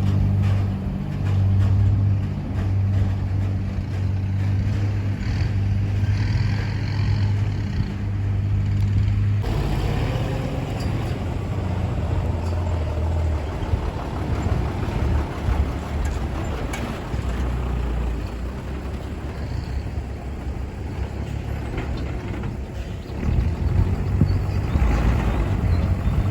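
Diesel engines of ten-wheel dump trucks running: a steady low engine hum at first, then, after an abrupt cut about a third of the way in, a rougher rumble of trucks on the move that gets louder near the end.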